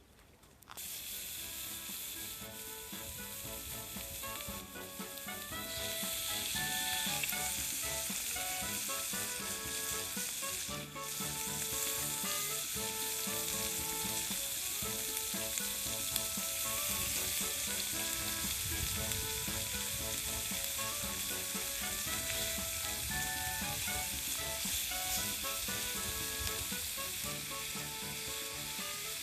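Meat sizzling on a small grill over a campfire, with a steady hiss that starts abruptly about a second in and gets louder about six seconds in. A melody of background music plays underneath.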